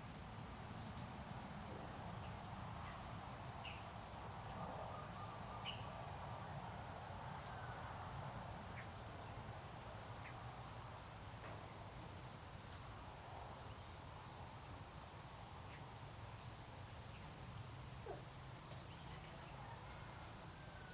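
Faint outdoor ambience: a steady low rumble with a thin high steady whine, and scattered short bird chirps now and then.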